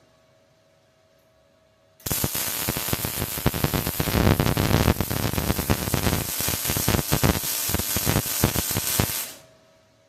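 Wire-feed welding arc crackling and sizzling as a bead is laid to fill a crack, starting abruptly about two seconds in and stopping suddenly near the end.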